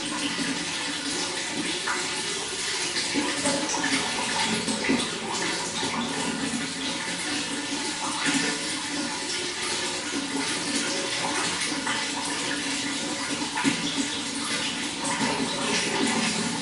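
Running water flowing steadily: a continuous, even rush with small irregular splashes.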